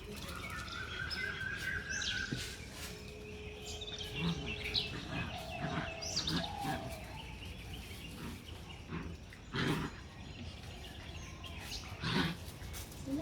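Birds chirping in short, gliding calls, with scattered clicks and knocks.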